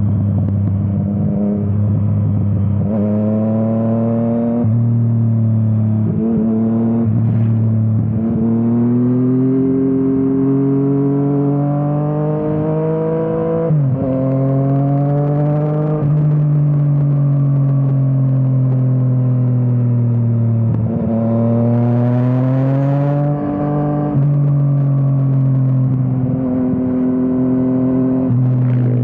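Yamaha MT-09's inline three-cylinder engine breathing through an Akrapovič exhaust, under way and accelerating. It rises in pitch, then drops sharply at each gear change or throttle roll-off. Around the middle there is one long, steady pull.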